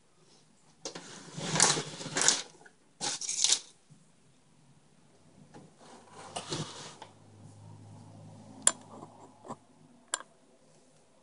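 Boxes and packaging being moved around on a work surface: several rustling, scraping bursts in the first few seconds, then quieter handling with two sharp clicks later on.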